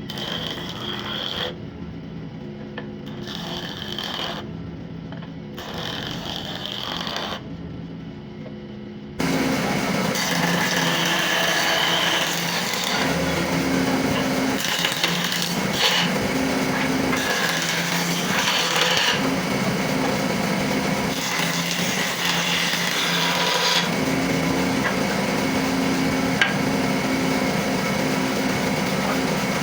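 Woodworking on old scrap wood: short, cut-up stretches of scraping against wood, then about nine seconds in a louder electric power tool running steadily and working the wood in passes that come and go.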